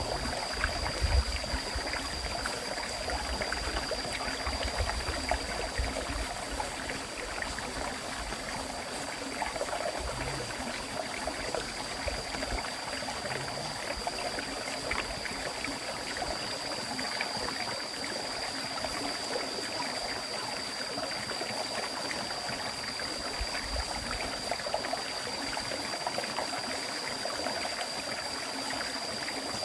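River water flowing in a continuous, steady rush with a trickling texture. A thin, steady high tone runs above it, and a few low rumbles come in the first seconds.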